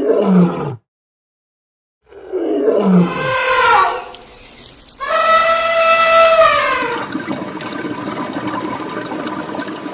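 Animal calls: three drawn-out, pitched calls that slide down in pitch, split by a moment of dead silence. The last is higher, held steady for about a second and then falls away into a rough, noisy tail.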